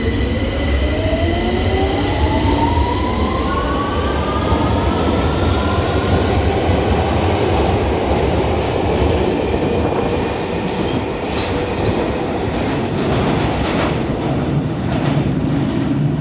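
London Underground train pulling out of the platform: its traction motors whine in several tones that rise steadily in pitch over the first few seconds as it speeds up, over the rumble of the wheels. Later the whine fades into the rumble, with a few clicks of wheels over rail joints.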